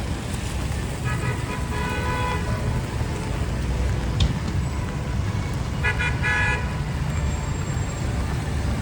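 Busy city street traffic running steadily, with car horns honking twice: a longer blast about a second in and a shorter one about six seconds in. A single sharp click sounds in between.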